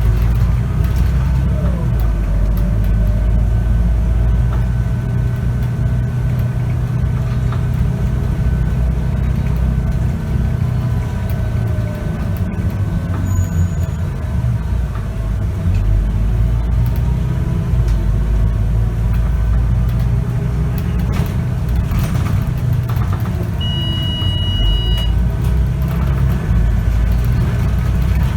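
Scania K94UB bus's diesel engine and ZF automatic gearbox running under way, a steady low rumble heard from inside the cabin, with engine pitch sliding up and down. A single high beep lasting about a second and a half sounds near the end.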